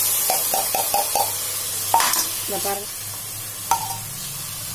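Ground mint paste sizzling in hot oil with fried onions and tomatoes in an aluminium pressure cooker as it is stirred in. A quick run of about five metal taps near the start, then a few single knocks, from the spoon against the metal vessels.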